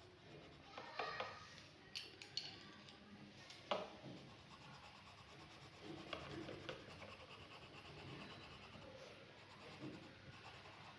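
Faint scratching and rubbing of drawing strokes on paper, with a few sharper ticks in the first four seconds.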